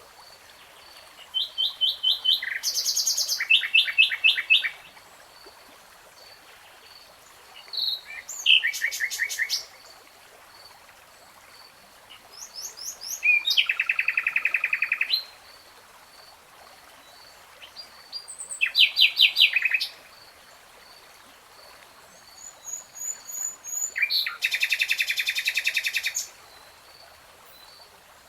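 A songbird singing in separate phrases of fast, repeated trilled notes. Each phrase lasts two to three seconds, with five phrases and short pauses between them. A faint, steady high note runs underneath.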